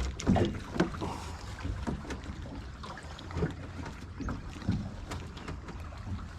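Wind rumbling on the microphone aboard a small fishing boat, with scattered short knocks and a few brief louder sounds while a large drum is being landed.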